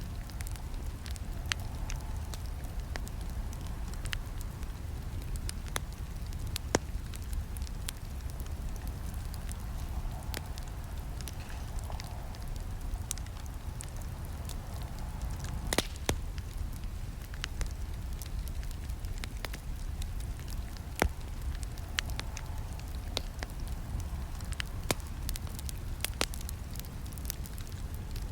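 Wood campfire crackling, with irregular sharp pops and snaps over a steady low rumble of burning. Two pops stand out as louder, about 16 and 21 seconds in.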